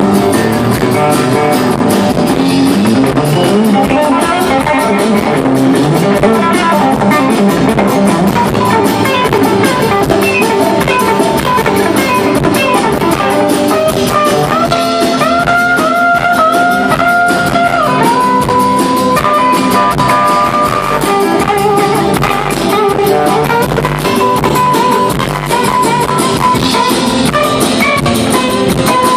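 Live band playing an instrumental passage, with guitar and drum kit. About halfway through, a lead instrument holds long notes.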